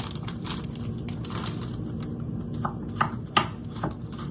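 Kitchen handling sounds: scattered knocks and clicks of utensils and cookware, the sharpest about three seconds in, over a steady low hum.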